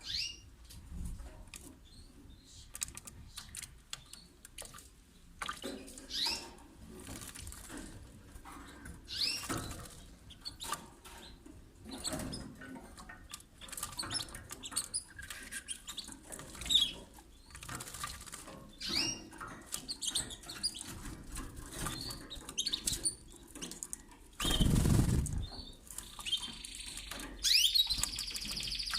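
Canaries bathing: scattered splashing and fluttering wings in water, with short chirps. Around 25 seconds in there is a louder burst of noise lasting about a second.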